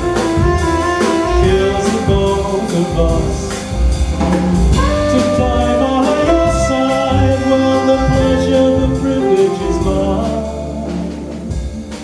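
Band music with a drum kit and held melodic lines, the instrumental close of a pop song, easing a little near the end.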